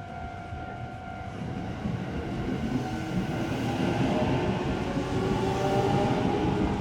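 A train approaching, growing steadily louder, its rumble joined by rising, sustained tones from its motors and wheels.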